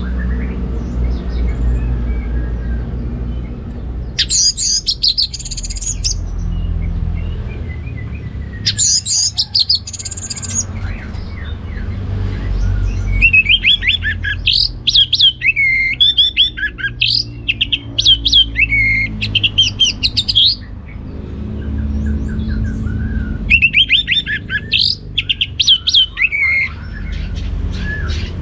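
Orange-headed thrush singing in four long bursts of rapid, high, varied notes with short pauses between them, over a steady low rumble.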